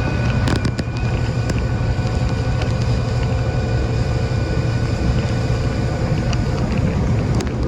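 Motorboat engine running at a steady cruise, a constant low drone, with wind rushing over the microphone.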